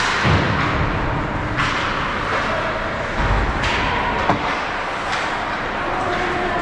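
Ice hockey game in a rink: repeated hissing scrapes of skates cutting and stopping on the ice, a few sharp knocks of stick or puck, over a steady arena din.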